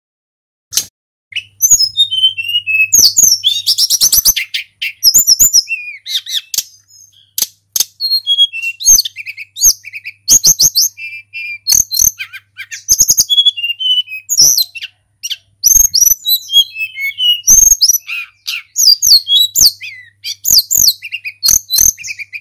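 Tledekan gunung songbird singing a varied song of rapid high whistles, sliding notes, trills and sharp clicks, in quick phrases with short pauses.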